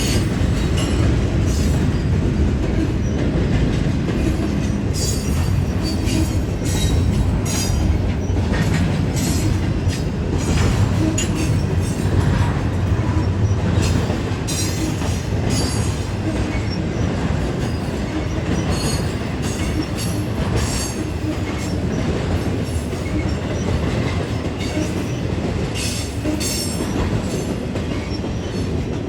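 BNSF intermodal freight train's cars rolling past at departure speed: a steady rumble of steel wheels on rail with many short, high wheel squeals and screeches. The rumble eases slightly near the end.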